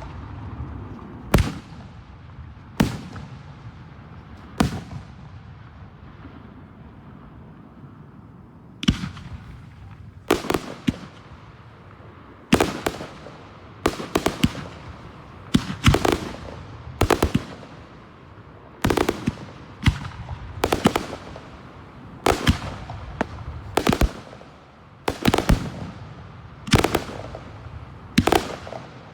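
Fireworks display: aerial bursts going off as sharp booms with short echoing tails. Three come spaced out, then after a pause of about four seconds they follow about once a second, sometimes in quick pairs.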